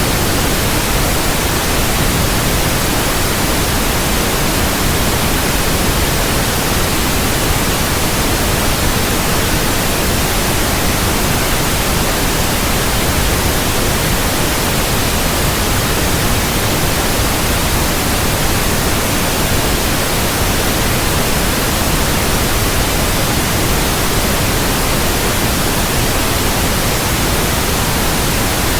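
Synthetic white noise: a steady, even hiss across the whole range of pitch, unchanging throughout.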